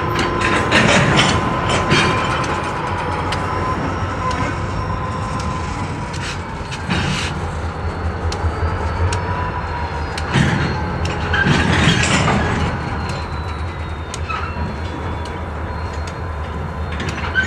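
Freight train cars rolling slowly past: a steady low rumble broken by scattered clanks and clicks from the wheels on the rails, with a faint steady squeal.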